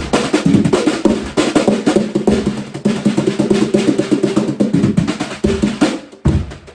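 Birch cocktail drum kit being played in a fast, continuous pattern of rapid strokes on the drums. The playing drops away about six seconds in, and a single hit follows.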